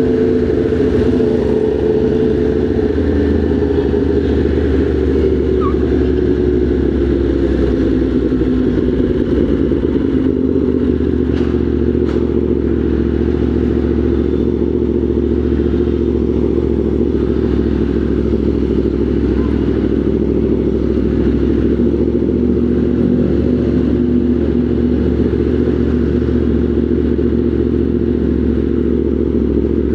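Motorcycle engine running at low, steady revs in slow traffic, its pitch easing down over the first several seconds and then holding level.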